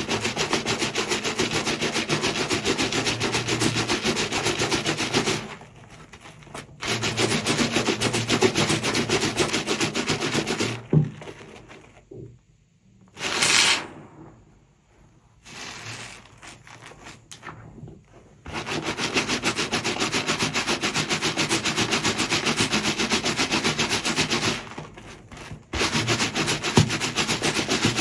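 Sponge scrubbed rapidly back and forth against soap, a fast, even scratching rhythm. It stops briefly about five seconds in, pauses longer in the middle apart from one short hiss and a few light strokes, and stops once more near the end.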